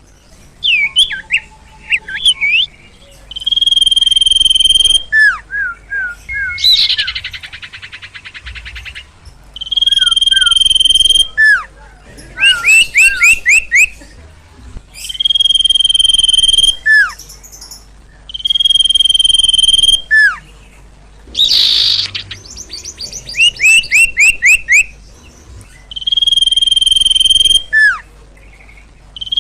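Sirtu (sirpo) bird calling energetically. Long whistled notes held on one high pitch, each about a second and a half, repeat every few seconds, alternating with quick runs of short downward-sliding chirps and a couple of brief harsh rasps.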